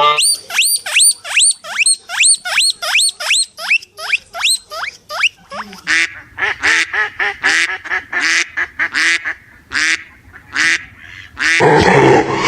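Animal calling: a fast series of repeated high, downward-sweeping notes, about three a second. About halfway the calls turn harsher and come further apart. A loud, harsh noise starts near the end.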